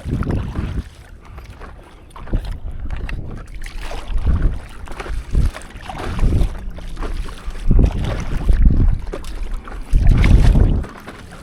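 Water sloshing and splashing around a stand-up paddleboard at sea, mixed with wind buffeting the microphone, in uneven bursts every second or two.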